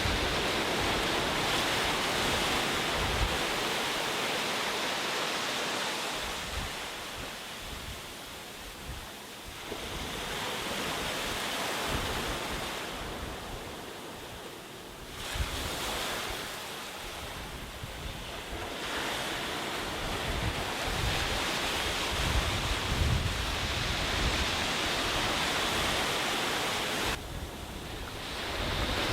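Sea surf breaking and washing on a beach, the rushing noise swelling and easing every few seconds as the waves come in, with wind buffeting the microphone.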